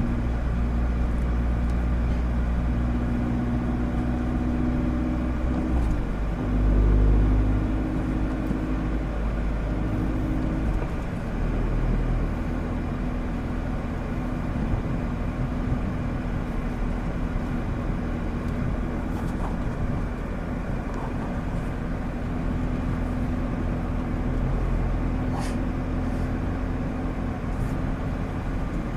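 A 2016 Mazda MX-5 Miata's four-cylinder engine running through a Goodwin Racing RoadsterSport race exhaust on the move, heard from the driver's seat. The engine note swells and changes pitch about six to seven seconds in and again around eleven seconds, then settles into steady cruising.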